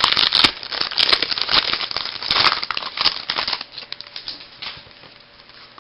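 Foil wrapper of a baseball card pack crinkling and tearing as it is opened. After about three and a half seconds it dies down to faint, scattered rustles.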